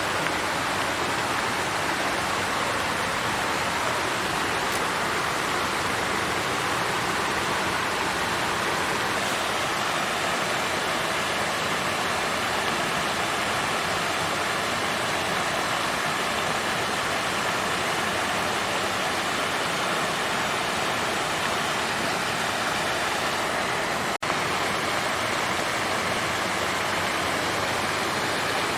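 Water fountain flowing and splashing in a steady, even rush. There is a split-second dropout about 24 seconds in.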